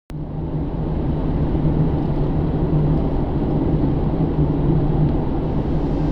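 Inside the cabin of a 2009 Pontiac G8 GT, its 6.0-litre V8 is running steadily while the car is driven, a low drone over tyre and road rumble.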